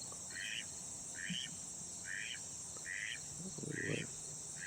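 Outdoor chorus of insects such as crickets: a steady high shrill drone, with a short chirp repeating evenly about once every 0.8 s.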